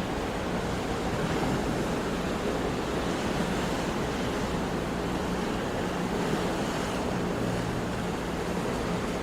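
Sea surf washing steadily on a shore, a continuous rush of waves with gentle swells, with some wind on the microphone.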